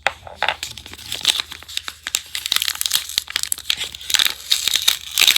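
Homemade blind bag being opened by hand: dense, irregular crinkling and tearing of packaging.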